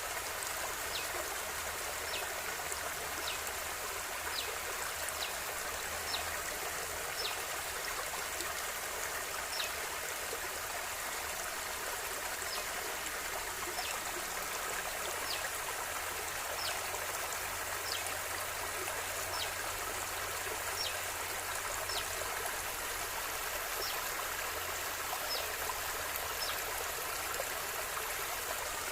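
River water flowing steadily over stones, an even rushing sound with small high plinks scattered about once a second.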